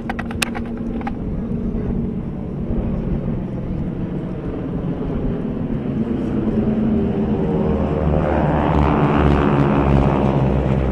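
An airplane flying past, its engine drone growing steadily louder and peaking about nine to ten seconds in as it passes overhead. A few sharp ticks sound at the very start.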